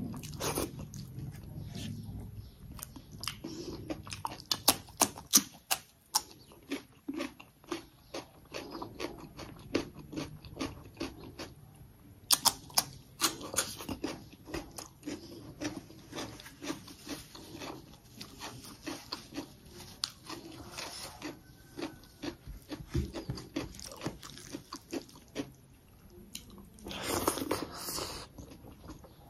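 A person chewing mouthfuls of rice and chicken curry eaten by hand, with many short wet clicks and lip smacks, and a denser crunchy patch near the end.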